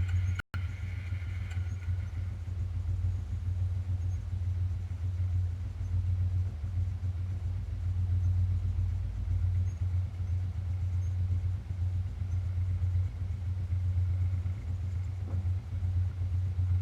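The single-cylinder four-stroke engine of a 1992 Suzuki Quadrunner 300 ATV idling steadily just after a cold start.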